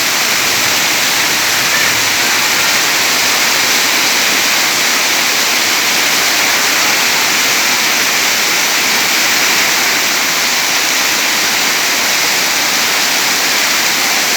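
Heavy rain pouring down, a loud, steady, unbroken hiss.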